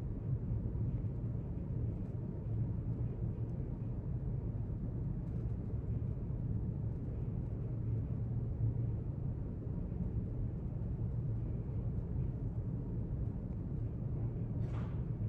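Steady low rumble of library room ambience, with a faint tap near the end.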